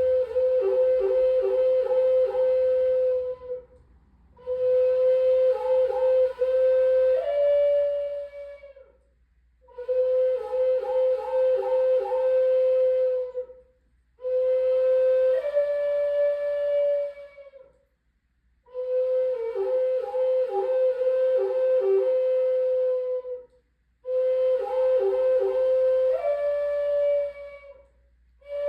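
Solo flute playing a slow, repeated phrase: a held note decorated with quick flutters down to lower notes, then a step up to a higher note. The phrase comes six times, with a short breath pause between each.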